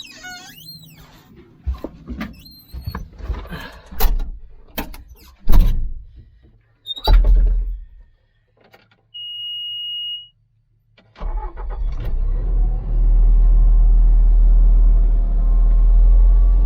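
Metal clanks and knocks, with a brief high squeal early on, as chain and hardware are handled; a short steady beep follows. About eleven seconds in a motor starts and runs loudly and steadily, its pitch creeping up slightly.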